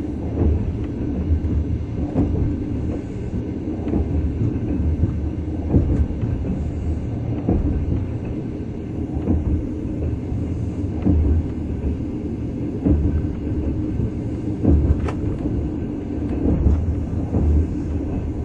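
Passenger train running, heard inside the carriage: a steady low rumble with scattered clicks and knocks from the wheels and the car.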